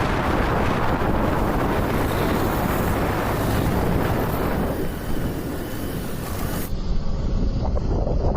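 Steady wind buffeting the microphone on a moving motorcycle, with road and vehicle noise underneath.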